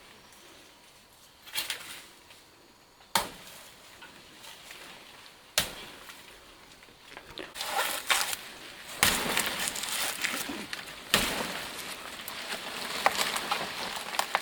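Chopping with a blade into plant stalks: about four sharp separate strikes, with rustling and crunching of leaves and vegetation that grows busier in the second half.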